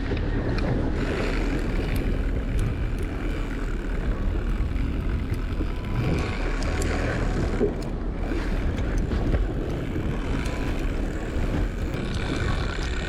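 Fishing boat's motor running steadily under wind noise on the microphone.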